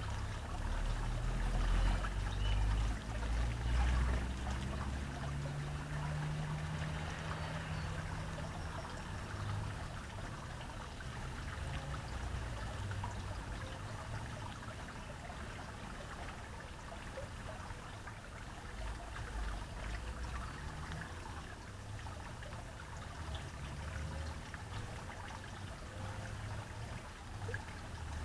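Water trickling steadily, with low rumbling that is strongest in the first few seconds.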